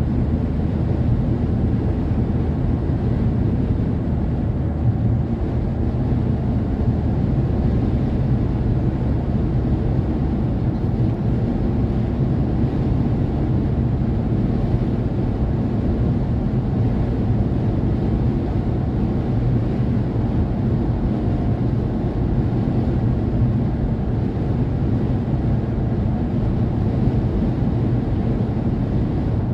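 Car driving at road speed: a steady low rumble of engine and tyres, with wind noise over it.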